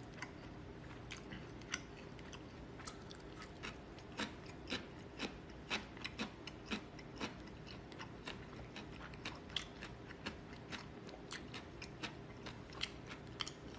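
A person chewing food close to the microphone: soft, irregular wet clicks and smacks of the mouth, sometimes several a second, over a faint steady low hum.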